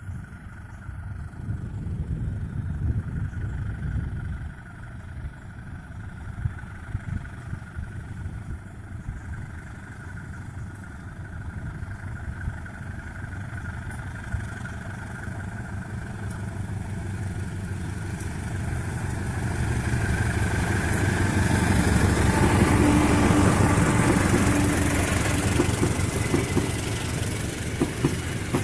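Vehicle engine rumble, then a CC201 diesel locomotive approaching, its engine getting steadily louder and peaking about two-thirds of the way through.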